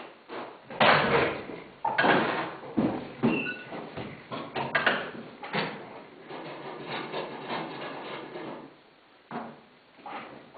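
John Deere 4320 six-cylinder diesel cold-starting: it fires in loud, uneven bursts as it catches, then runs more steadily and clattery, with a brief drop near the end followed by another burst.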